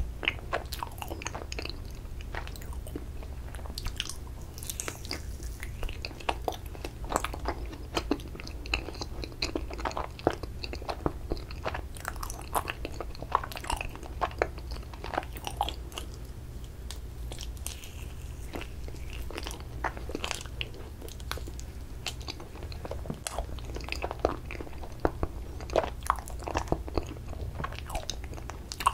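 Close-miked chewing of a strawberry ice cream mochi: repeated bites and wet mouth clicks, with a steady low hum underneath.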